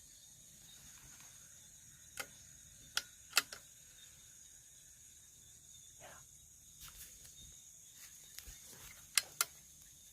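Insects chirring steadily at a high pitch, broken by sharp clicks: three in quick succession a couple of seconds in, and two close together near the end.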